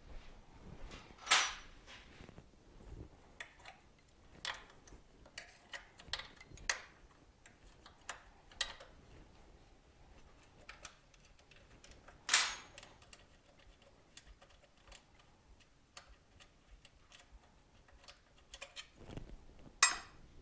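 Scattered clicks and light knocks of tools and parts being handled during disassembly of a Suzuki TC125 motorcycle. Three sharper knocks stand out: about a second in, around the middle, and near the end.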